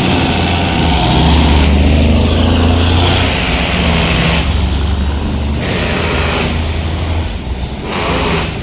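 Road vehicle engines running: a steady low engine drone, with the rushing noise of traffic rising and falling a few times.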